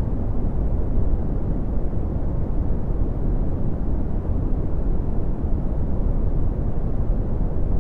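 Red (Brownian) noise: a steady, even, deep rumbling hiss, strongest in the lows and falling away toward the highs, without change.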